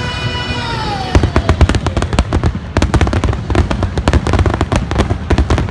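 Fireworks finale barrage: a rapid string of bursts and cracks, several a second, begins about a second in and continues on. Before it, a held note from the show soundtrack slides down and fades out.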